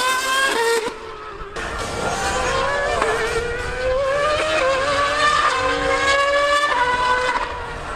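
High-revving racing engine accelerating hard through the gears: its pitch climbs, then drops at each upshift, several times over.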